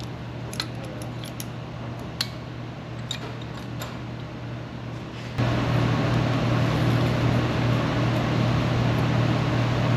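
Steady machine hum with scattered light clicks and taps, then about five seconds in a louder steady machine noise switches on abruptly and keeps running.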